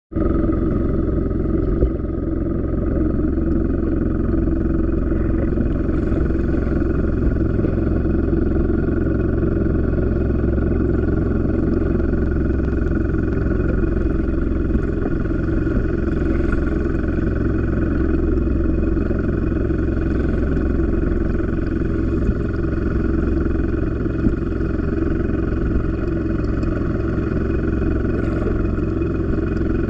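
Engine running steadily at a constant speed, an unbroken drone with no change in pitch.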